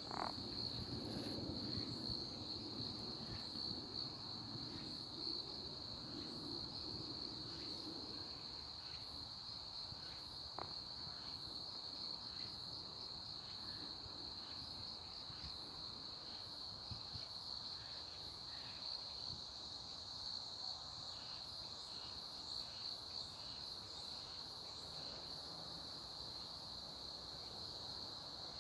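Insects, cricket-like, trilling in one steady, unbroken high-pitched tone, with faint short chirps above it. A low rumble sits under the trill for the first several seconds, then fades.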